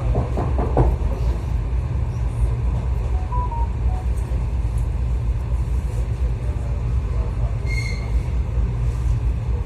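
Steady low rumble of a moving suburban electric train, heard from inside the carriage. A few short clicks come in the first second, and a brief high squeak comes near the end.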